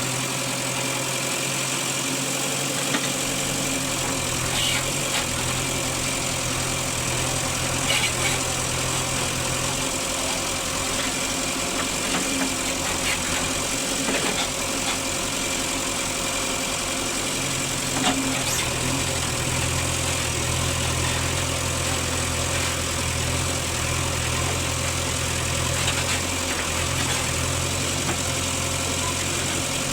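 Diesel engines of a backhoe loader and tractors running steadily at work, with a few faint knocks. The deepest part of the engine note drops away for several seconds about a third of the way in, then comes back.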